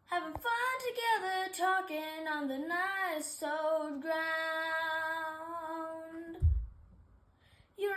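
A young female voice singing unaccompanied, a phrase that ends on a long held note; a low thump follows about six and a half seconds in, and the voice starts another short phrase near the end.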